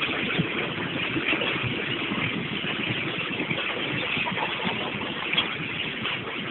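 Tractor engine running as it tows along a road, with steady rumbling road noise and irregular low knocks.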